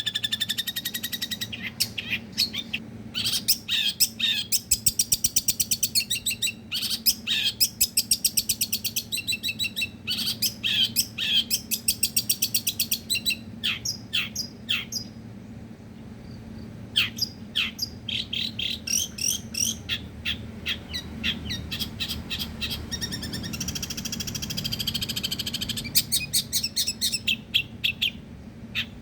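Long-tailed shrike (pentet) singing in rapid-fire bursts of fast repeated sharp notes and trills, with a pause of about two seconds midway. A faint low steady hum runs underneath.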